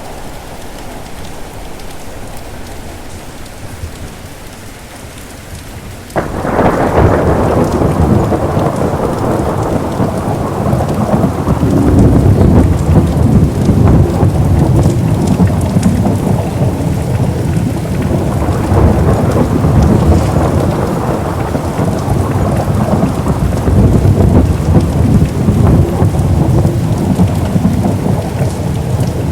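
Steady rain falling, then about six seconds in a sudden thunderclap breaks into a long, loud low rumble of thunder that keeps rolling over the rain.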